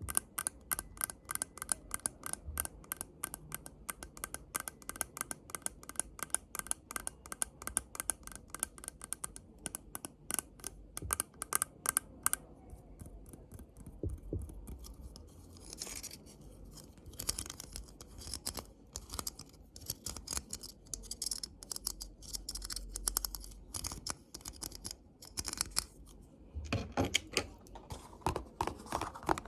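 Close-miked ASMR tapping and scratching: a fast, even run of crisp clicks, several a second, for about the first twelve seconds, then looser, irregular taps and scratches.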